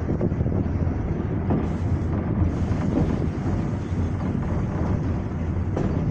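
Passenger train running along the line, heard at an open carriage window: a steady low rumble of the running gear with wind buffeting the microphone, and a couple of sharp clacks from the wheels.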